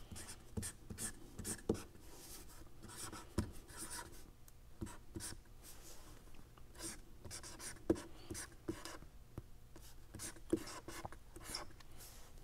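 Faint handwriting: short irregular scratching strokes of a pen or marker on a writing surface, with a few small taps.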